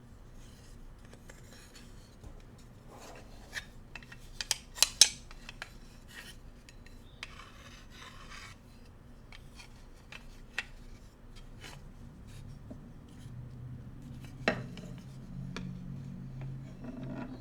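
Bamboo cooking utensils handled close up: scattered taps and clacks, with a loud cluster of sharp clacks about five seconds in, short scraping and rubbing strokes, and a single sharp knock near the end.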